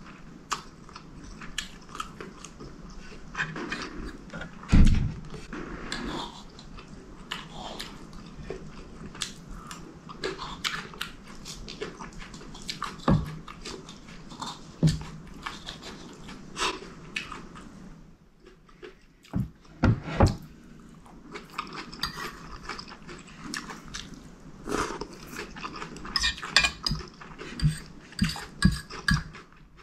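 Close-miked chewing and wet mouth smacks of eating chicken curry with rice, with metal spoon and fork clinking and scraping on the plate. A couple of dull low thumps stand out, the loudest about five seconds in.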